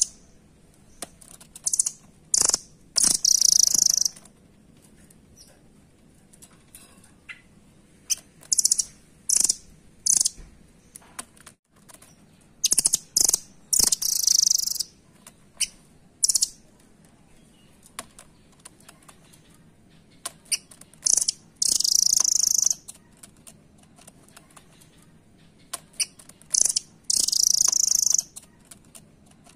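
Velvet-fronted nuthatch calling: clusters of short, sharp, very high chips with quiet gaps between them, and now and then a longer burst lasting about a second.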